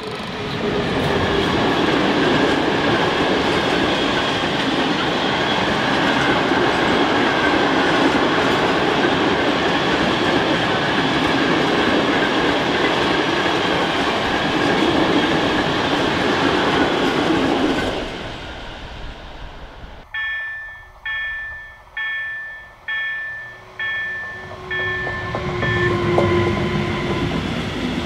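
A freight train of flat wagons rolling past a level crossing, with a loud steady rumble and rattle of wheels on rail that fades away after about 18 seconds. Then a level-crossing warning bell rings about five times, followed by the rolling noise of a second freight train of open wagons.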